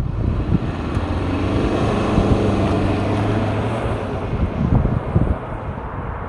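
2.0-litre four-cylinder turbo-diesel engine of a BMW 520d accelerating hard, its note held steady for a few seconds over wind and road noise, then easing off near the end.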